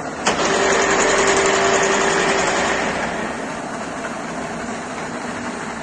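Heavy 165 DIP-500 screw-cutting lathe running. Shortly after the start a louder whir with a steady whine cuts in, lasts about two and a half seconds and then drops away.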